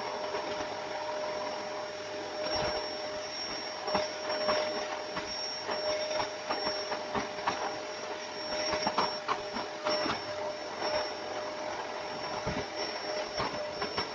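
Vacuum cleaner running with a steady whine and hiss, with many small clicks and knocks scattered through it.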